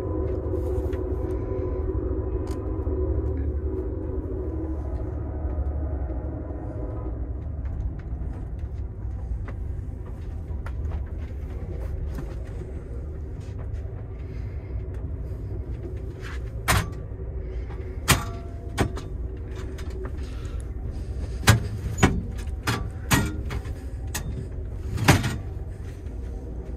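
Amtrak Superliner sleeping car running, heard from inside the bedroom: a steady low rumble, with a steady hum of several tones over it that stops about seven seconds in. In the second half come several sharp knocks and thumps.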